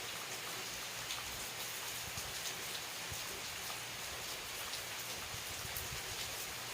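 Steady rain falling on surfaces: an even hiss with many small drop ticks scattered through it.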